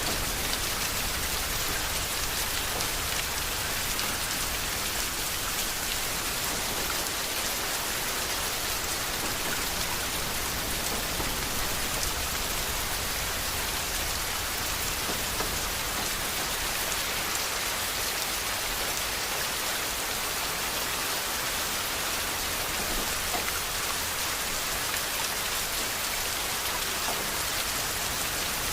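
Steady rain falling, a constant even hiss that does not change in strength.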